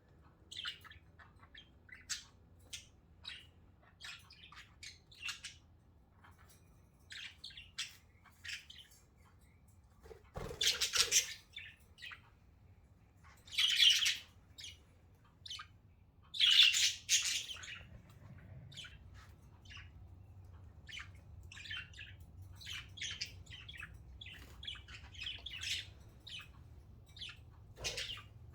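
Pet budgerigars chirping and chattering in many short high chirps, with three louder, longer squawking calls in the middle.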